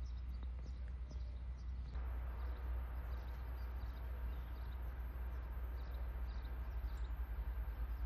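Small birds chirping now and then in the forest, over a low steady rumble that flutters near the end.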